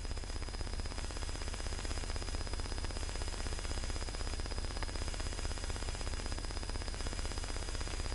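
Steady cockpit background noise heard through an aircraft's intercom and radio audio feed: an even hiss over a low rumble, with a faint constant high-pitched whine.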